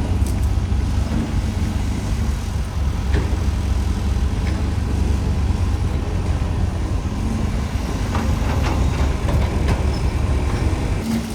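Heavy diesel construction machinery running steadily, a deep engine rumble, with a few light clanks about three seconds in and again near the end.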